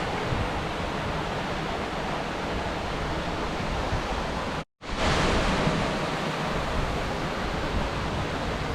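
Steady rush of water in a mountain stream, with the noise cutting out for a moment about halfway through and then coming straight back.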